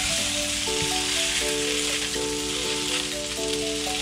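Stir-fry sizzling hard in a non-stick frying pan as wide rice noodles, shrimp and Chinese sausage are tossed with tongs, with background music playing.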